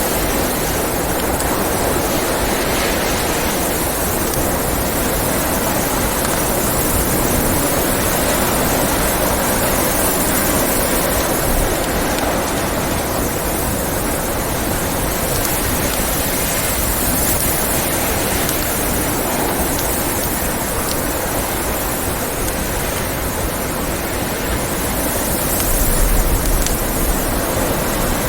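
Blizzard wind blowing steadily, swelling in gusts, with a low rumble that rises near the end; a few faint crackles from a wood fire come through here and there.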